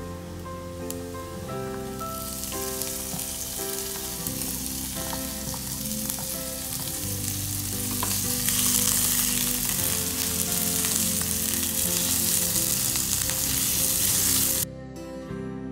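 Minced meat sizzling as it fries in a hot non-stick pan with onion and garlic, stirred with a spatula. The sizzle swells about two seconds in, grows louder, and cuts off suddenly near the end.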